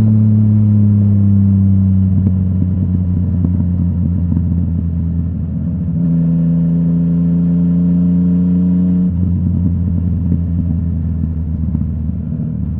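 Yamaha MT-09's crossplane three-cylinder engine through a full Akrapovic exhaust, running at a steady low-rev note that slowly sinks in pitch, steps up sharply about six seconds in, and shifts again around nine seconds in.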